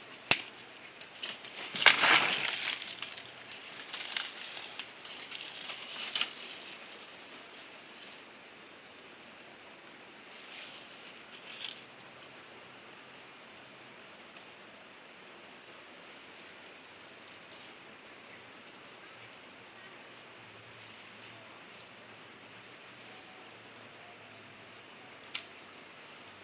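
Rustling and scraping of a mist net and its fixings being handled, with a sharp click at the start and the loudest rustling about two seconds in, fading out by around twelve seconds. After that only a faint steady hiss of evening insects with a thin high tone remains, broken by one more click near the end.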